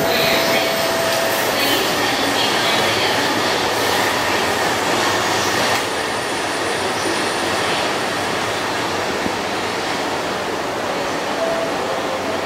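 Steady railway noise at a station platform beside a standing JR East E235 series Yamanote Line electric train. A thin steady whine fades out about a second and a half in and comes back near the end.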